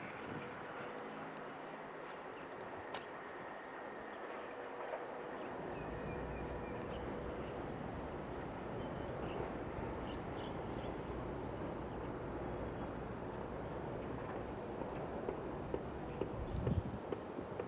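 Insects chirring in a steady, fast-pulsing high trill, while a low rumble sets in about a third of the way through as a switcher locomotive slowly pushes the train set along the track; a few sharp knocks come near the end.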